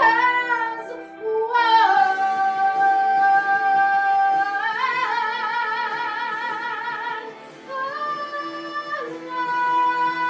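A woman singing solo over a steady instrumental accompaniment, holding long notes with vibrato. A new phrase climbs to a higher note about halfway through.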